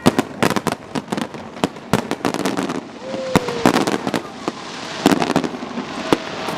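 Fireworks display going off in a rapid, irregular string of sharp bangs and crackles, several reports a second.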